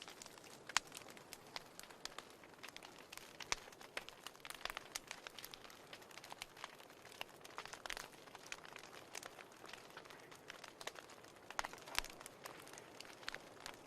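Fire burning in a fireplace: irregular sharp crackles and pops over a soft hiss.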